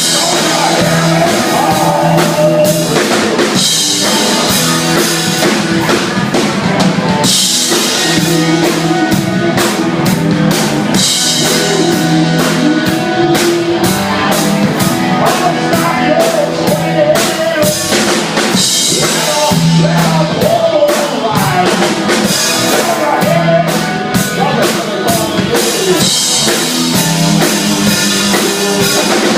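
A band playing a blues jam, the drum kit keeping a steady beat under guitar and a bending lead melody.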